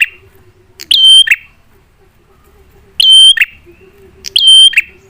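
Prenjak (prinia) lure call: three loud, sharp call notes, each about half a second long, repeated every one to two seconds.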